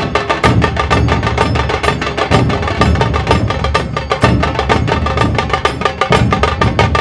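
Dhol tasha ensemble drumming: rapid sharp stick strokes on tasha drums over the heavy low beats of big dhols, in a fast, dense, continuous rhythm.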